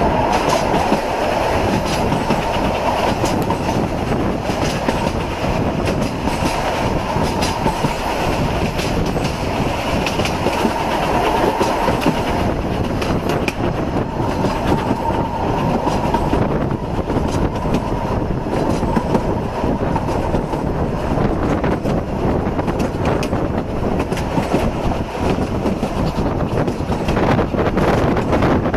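Narrow-gauge steam railway train in motion, heard from a carriage window: a steady running rumble with the wheels clicking over rail joints.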